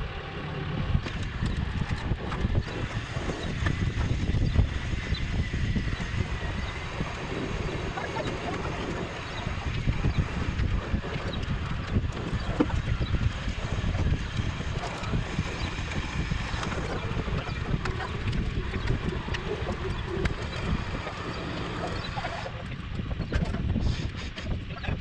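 Wind buffeting the microphone: a gusting low rumble.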